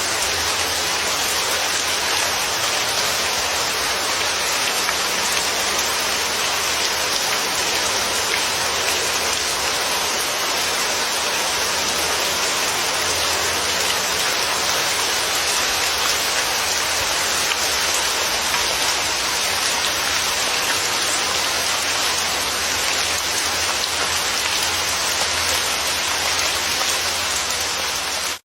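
Steady, dense rainfall: an even hiss of rain on a surface that does not let up.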